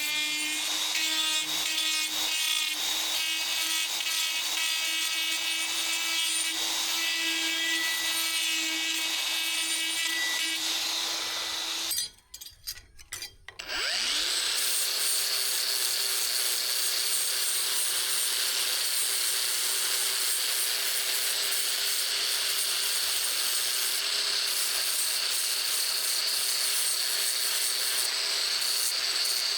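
An electric power tool working the steel of an old saw blade: its motor runs with a steady whine under a rough rasping grind. About twelve seconds in it stops for roughly two seconds, then spins back up and runs steadily again.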